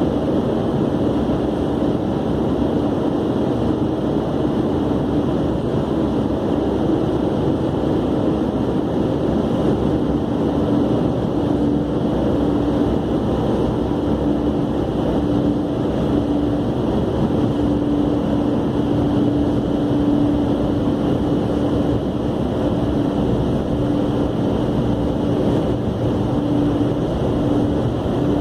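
Steady machine noise with a humming tone that fades in and out: car-wash equipment running.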